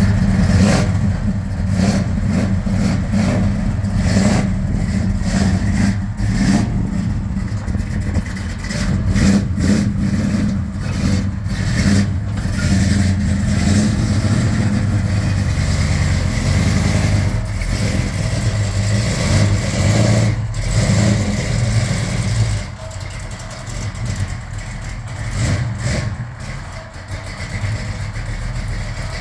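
Classic car's engine running, with surges of revving, then running more quietly at idle for the last several seconds.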